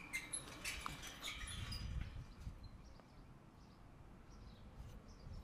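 Faint birds chirping in short high calls during the first couple of seconds, over a low rumble.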